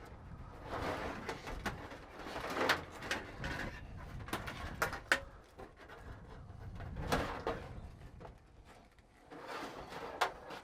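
Galvanized steel aileron control cables being pulled out and handled: irregular rubbing and scraping, with several sharp clicks and knocks.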